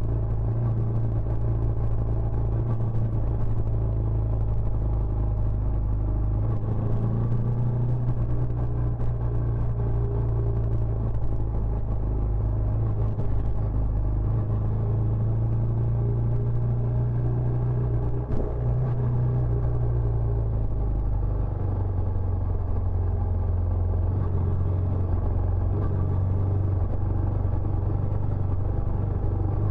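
Benelli Imperiale 400's single-cylinder engine running steadily through its stock exhaust, a continuous low rumble; the engine note drops slightly about 21 seconds in.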